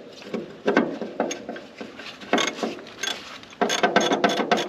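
Socket ratchet clicking in short strokes as a spark plug is tightened back into the engine, with a quicker run of clicks near the end.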